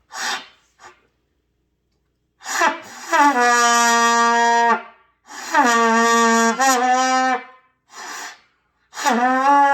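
Trumpet played by a beginner, holding three long notes in a row with short gaps between them, each note sliding down into its pitch at the start: long-tone practice.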